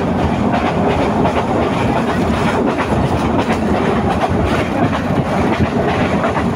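Passenger train running at speed, heard from an open carriage window: a steady rumble and rush with irregular clattering clicks of the wheels on the rails.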